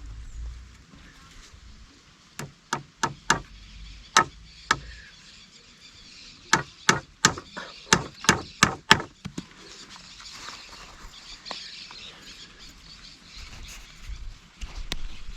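Chopping: sharp, separate strikes of a tool into wood, a first run of about six strokes, a short pause, then a quicker run of about nine strokes.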